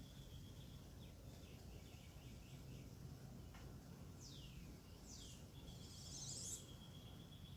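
Faint backyard birdsong: a few short chirps, then two calls sliding down in pitch about four and five seconds in, and a buzzier call that is the loudest sound, near the end. Underneath are a steady high trill and a low background rumble.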